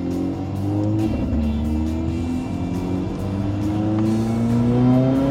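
Mercedes-AMG A45 (W176) turbocharged 2.0-litre four-cylinder with a Milltek exhaust, accelerating hard, heard from inside the cabin: the revs climb, drop at a gear change about a second in, then climb steadily again for about four seconds.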